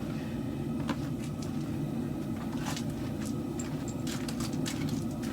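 A forge running with a steady low rumble, with scattered light clicks and ticks over it.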